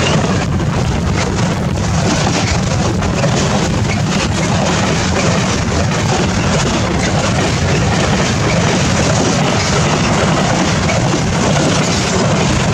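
Freight train passing through the station: a loud, steady rumble and rush of wagons going by.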